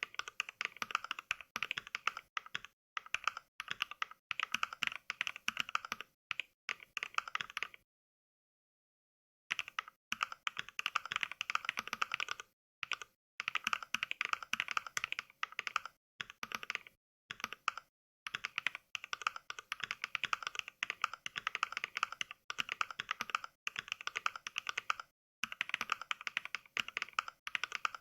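Software-generated mechanical keyboard sounds (the Mechvibes NK Cream switch sound pack) triggered by fast touch typing: rapid runs of crisp key clicks. The runs are broken by short pauses and by one dead-silent gap of about a second and a half roughly a third of the way in.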